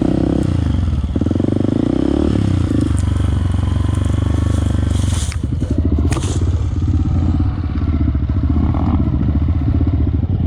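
Off-road motorcycle engine running under way, a steady rapid train of firing pulses that wavers in pitch over the first few seconds, with a short burst of hissing noise about five to six seconds in.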